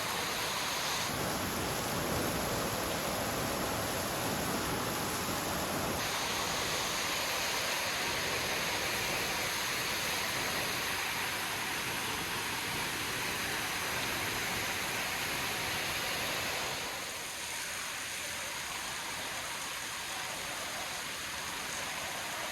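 Steady rush of falling water from gorge waterfalls and cascades. Its tone shifts about a second in and again about six seconds in, and it gets a little quieter about seventeen seconds in.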